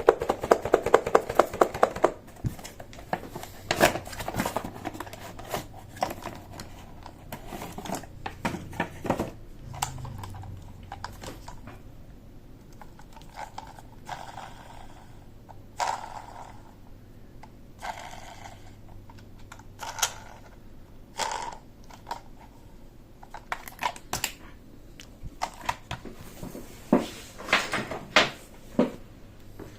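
Plastic toy parts being handled: a quick run of clicks near the start, then scattered separate clicks and knocks of plastic on plastic.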